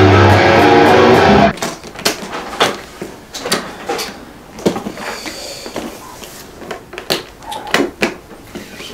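Band instruments, an electric guitar over low bass notes, playing loudly and stopping abruptly about a second and a half in. Quieter scattered clicks and knocks follow.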